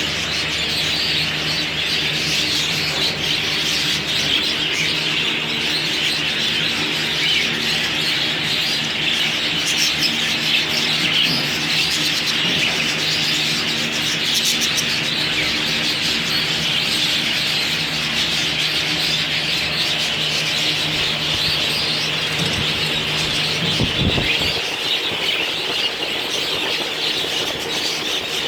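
Many small birds chirping and chattering all at once in a dense, unbroken din, with a faint steady low hum underneath.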